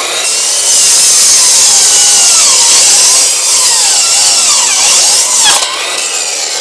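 Power saw cutting through a wooden fence board, its motor pitch sagging and recovering as the blade bites. The cut eases to a lighter, quieter run about five and a half seconds in.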